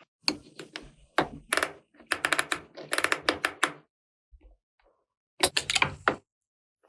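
Small hard plastic toy pieces being handled, giving clusters of rapid clicks and taps with a short pause about two-thirds of the way in.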